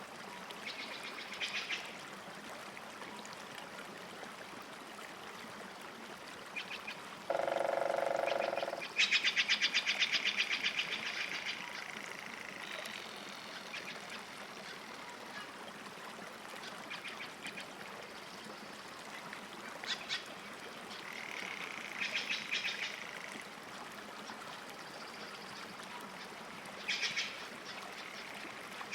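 Lakeside birdsong: small birds sing short, rapid trills several times, the longest about nine seconds in, over a steady soft wash. Once, about seven seconds in, a lower, drawn-out bird call sounds for a second or so.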